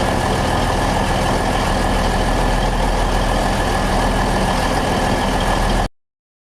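Diesel-hydraulic locomotive's diesel engines running steadily, with a steady high whine over the low engine note. The sound cuts off suddenly near the end.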